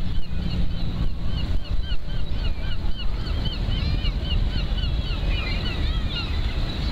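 A bird calling in a rapid run of short, repeated calls, about three a second, over a steady low rumble of wind on the microphone.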